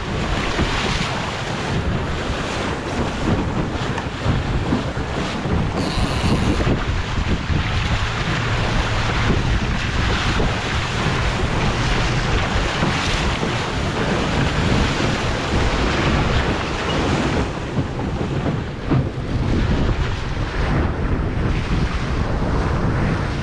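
Wind buffeting the microphone and water rushing along the hull of an E Scow sailboat under way, a steady loud rush, with a brief hiss about six seconds in.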